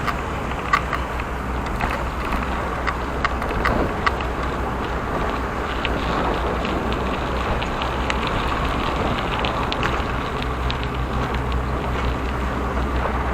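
Wind rushing over the microphone while riding a bicycle, a steady rumbling hiss with scattered small clicks and rattles.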